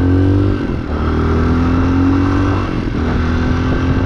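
Chinese 250cc dirt bike engine pulling through the gears while riding. Its pitch climbs, drops about half a second in and again about two and a half seconds in as it shifts up, then holds nearly steady.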